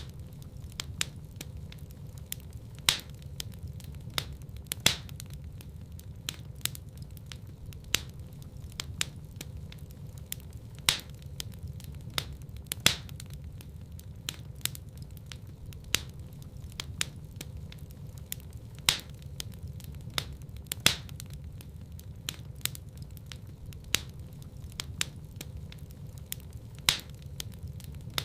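Wood fire crackling in a fireplace: sharp crackles about once or twice a second, with louder pops every few seconds, over a steady low rumble.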